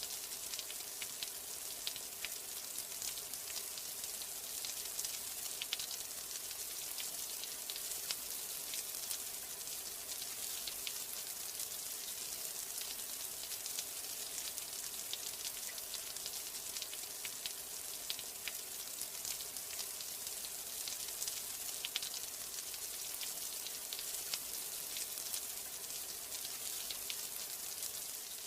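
Steady rain: an even hiss with many small, sharp ticks of single drops.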